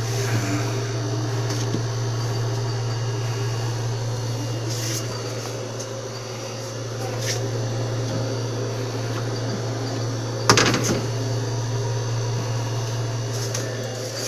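Soft-drink chiller running after repair, its refrigeration compressor giving a steady low hum; the unit is cooling. A short, sharp clatter sounds about ten seconds in.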